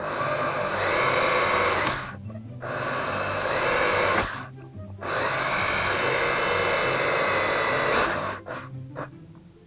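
Electric drill running in three bursts of a few seconds each, drilling holes through a thin aluminium beer can, with short pauses between.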